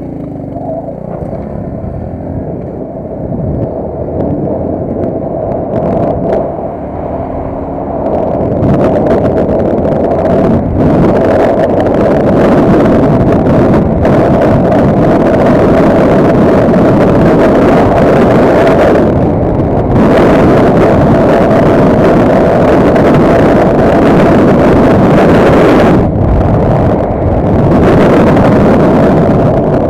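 Small motor vehicle's engine running while under way, with loud rushing noise over it and a steady drone underneath; it grows much louder about eight seconds in and stays loud.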